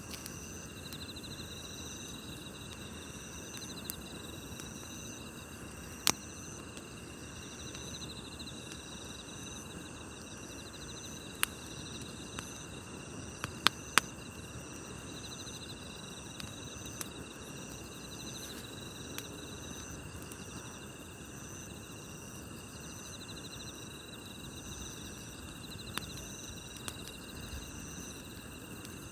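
Crickets chirping in a steady, repeating rhythm over the low hiss of a wood campfire. The fire gives a few sharp crackling pops, two of them close together about halfway through.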